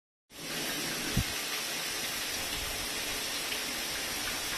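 Water spraying steadily from a 5-inch multi-setting shower head, with a brief low thump about a second in.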